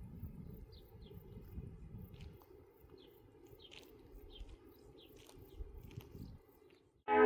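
Faint outdoor ambience with small birds chirping now and then, and a low rumble that drops away about two seconds in. Loud electronic music cuts in at the very end.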